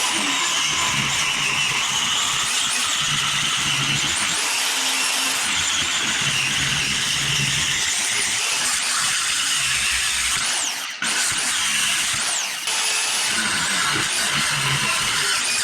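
A power tool running under load, a dense rasping noise with a high whine that rises and falls, briefly easing off twice near the end.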